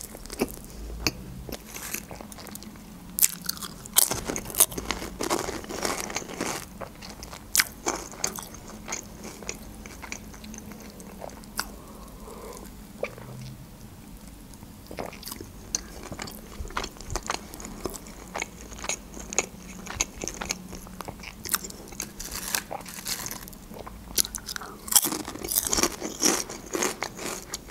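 Close-miked chewing of sushi rolls: wet mouth clicks and soft crunching bites, one after another at an uneven pace. About halfway through there is a pause for swallows of soda from a glass, then the chewing resumes.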